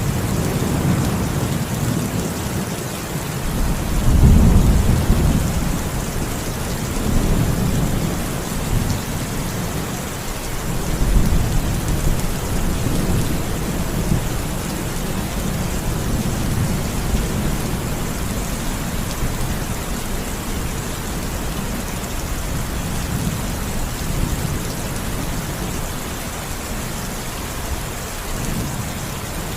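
Steady rain falling, with low thunder rumbling underneath. The rumble swells and fades several times and is strongest about four seconds in.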